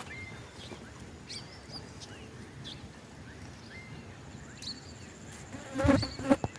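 Wild birds chirping: short high calls, some rising and some falling, repeating every second or so. A louder brief noise comes near the end.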